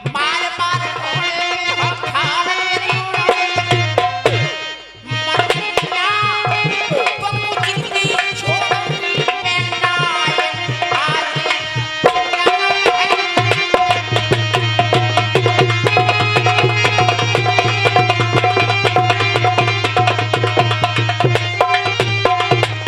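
Instrumental folk music interlude: a hand drum plays a fast, steady rhythm under a melodic instrument. The music breaks off briefly about five seconds in, and a steady low drone replaces the low drum strokes partway through.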